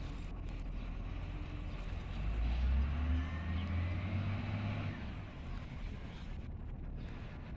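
Garbage truck engine running, swelling louder for about three seconds in the middle and then easing back to a steady rumble.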